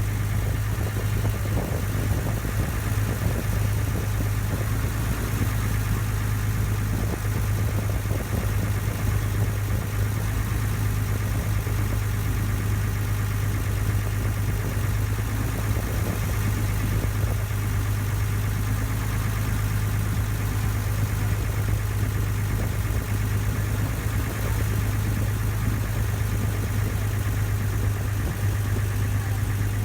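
A ferry boat's engine running steadily, heard on board as an unchanging low hum.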